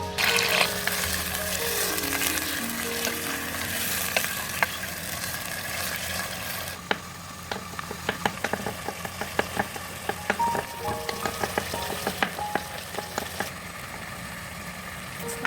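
Food sizzling as it fries in hot oil in a pan. The sizzle is loud for about the first seven seconds, then drops, and many quick sharp clicks and taps of a utensil stirring against the pan follow.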